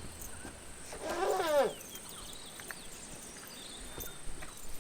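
A single short animal call with a falling pitch about a second in, over faint scattered bird chirps.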